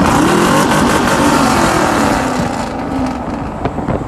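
Pickup truck engine revving hard, its pitch rising and falling a couple of times.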